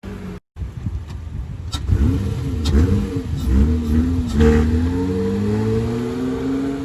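Acura TL engine revving through an exhaust with the mid muffler and resonator deleted: several quick revs rise and fall in the middle, then the note settles into a steadier, slowly changing tone. The sound cuts out briefly about half a second in.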